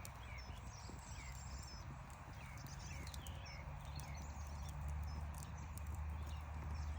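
Campfire crackling with irregular sharp pops, while small birds chirp a few times a second over a low steady rumble.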